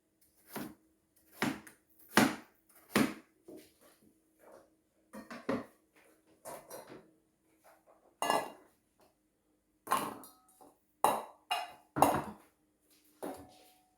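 Kitchen utensils and cookware knocking and clinking, about sixteen separate sharp knocks at an uneven pace. Several knocks after about ten seconds leave a short metallic ring.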